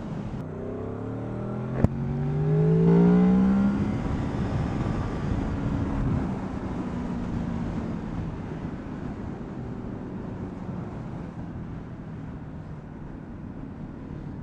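Motorcycle engine accelerating, its revs climbing for about three seconds with a sharp click near the start, then running on at a steadier pitch while slowly growing quieter.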